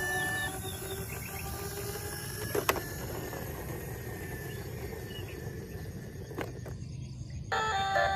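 Steady outdoor background noise with a low rumble and a couple of sharp clicks; near the end a battery toy vehicle's electronic tune starts up.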